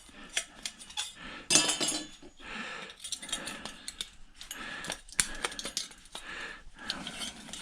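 Thin aluminum cooling fins on a microwave magnetron being pried off with a metal tool: irregular metallic clinks and clicks, with short stretches of scraping.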